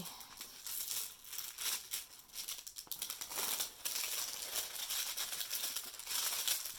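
Plastic cover film on a diamond painting canvas crinkling and rustling as the canvas is handled and unrolled.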